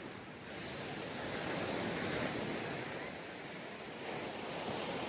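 Sea waves breaking and washing up a beach: one wave swells about half a second in, peaks around two seconds and eases off, and the next begins to build near the end.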